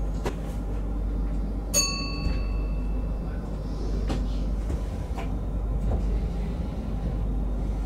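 Train running, heard inside the driver's cab: a steady low rumble with scattered clicks and rattles. About two seconds in, a short metallic ring with several pitches sounds and fades within about a second.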